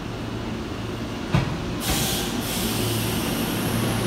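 Hanshin Railway electric train pulling slowly into the platform, with a steady low running hum that grows a little louder as it comes alongside. There is a single sharp clack about a second in, then a short hiss of air just before two seconds.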